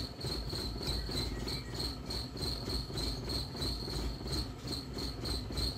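Suzuki Grand Nómade's J20A 2.0-litre four-cylinder engine idling, a low rumble heard from inside the cabin; the car has an unstable idle with a fault not yet found. A steady, high-pitched pulsing chirr runs over it.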